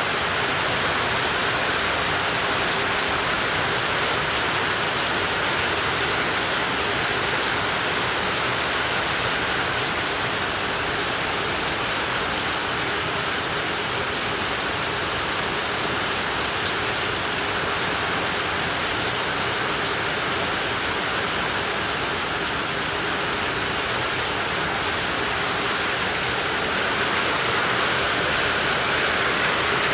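Heavy tropical rain falling steadily, a dense, even hiss of downpour.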